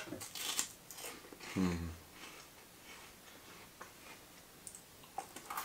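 Someone biting and chewing a crisp chocolate-hazelnut wafer: a few faint crunches in the first second and a short closed-mouth hum, then quiet chewing with small clicks.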